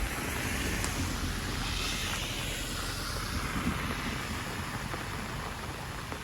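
Rain and wind in a storm: a steady rushing hiss that swells for a couple of seconds in the middle.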